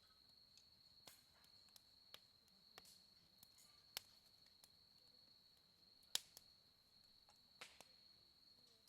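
Firewood burning in a campfire, crackling with scattered sharp pops, the loudest a little after six seconds in. Crickets trill steadily underneath.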